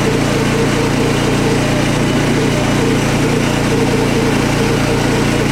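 Small engine of a portable sawmill running steadily, at an even pitch with a regular pulsing throb.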